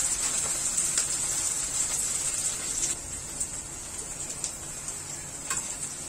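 Cut okra deep-frying in hot mustard oil in a kadai, a steady high sizzle that softens after about three seconds, with a few faint clicks.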